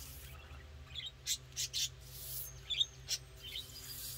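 Birds chirping outdoors: a scattering of short, high chirps, about half a dozen, over a faint steady low hum.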